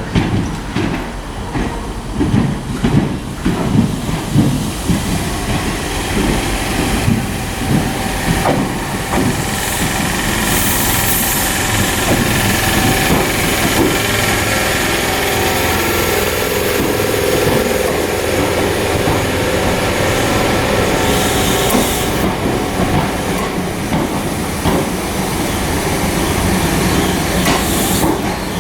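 Electric multiple-unit train moving through the station, its wheels clattering over the rail joints for the first few seconds. Then a steady rumble, with two short bursts of hiss, one about a third of the way in and one past two-thirds.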